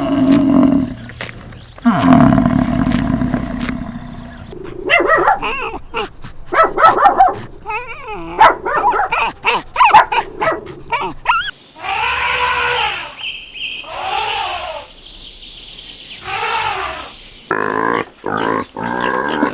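A run of farm-animal calls: low grunts and roar-like calls at first, then a quick series of short calls that bend in pitch, then several longer calls that rise and fall, and short calls again near the end.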